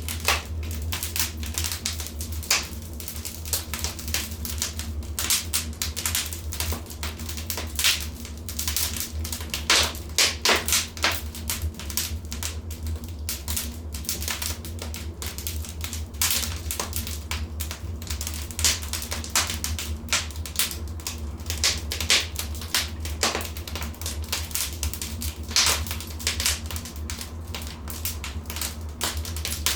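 Wood fire in a fireplace crackling and popping, many sharp irregular snaps in quick succession over a steady low rumble.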